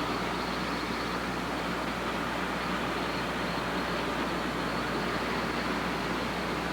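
Steady road and engine noise of a car driving, heard from inside the vehicle.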